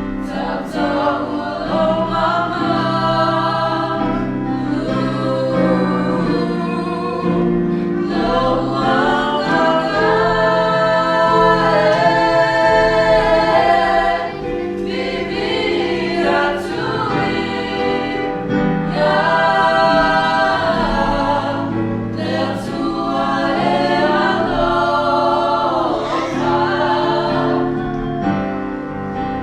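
A small group of young voices singing a slow song together in harmony, with sustained low accompanying notes underneath.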